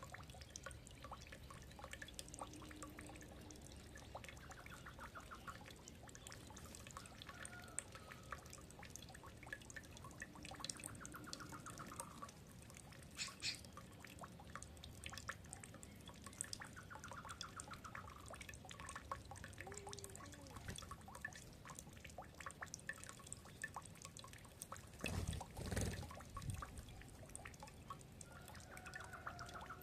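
Birds feeding and calling: a constant faint patter of small clicks and taps, with short repeated chirping trills every few seconds and a louder burst of noise about 25 seconds in.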